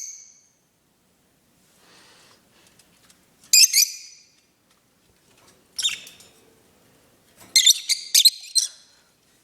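Small pet parrots chirping in short, shrill bursts: a quick cluster about three and a half seconds in, another near six seconds, and a longer run of rapid chirps near the end.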